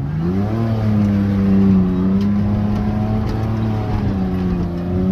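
Beater Ford Ranger pickup's engine accelerating: its pitch climbs quickly at the start, then holds steady under throttle and eases slightly near the end. The owner says the engine still has a misfire and needs a new distributor.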